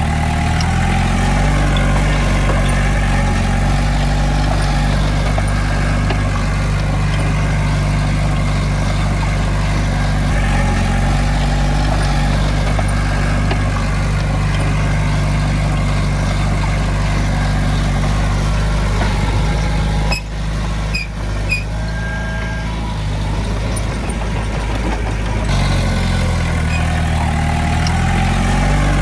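Heavy diesel engine of earthmoving machinery running under changing load, its pitch rising and falling now and then. About two-thirds of the way through it drops off for a few seconds, with a few short clicks and a brief high tone, before running on again.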